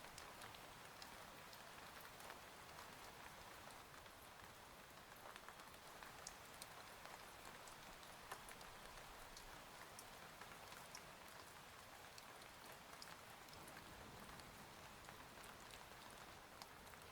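Faint steady rain, an even hiss with many small drop ticks scattered through it.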